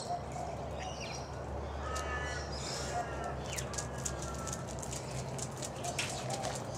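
Birds calling in the background, the clearest calls about two to three seconds in, over a low steady hum.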